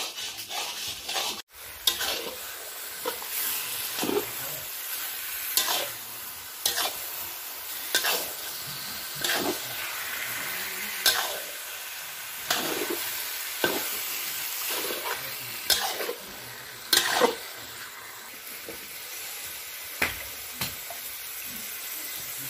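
Pork frying in a wok with a steady sizzle, stirred with a spatula that scrapes and knocks against the pan about once every second or so.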